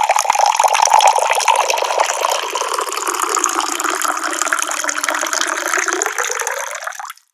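Water pouring from a tap in a steady stream, stopping abruptly near the end.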